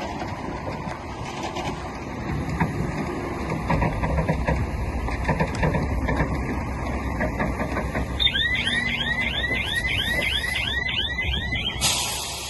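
Heavy earthmoving machinery running, a bulldozer or dump truck with a deep engine rumble and scattered clanks. About two-thirds of the way in, a reversing alarm starts up: rapid rising chirps about three a second for some three seconds. A short hiss follows near the end.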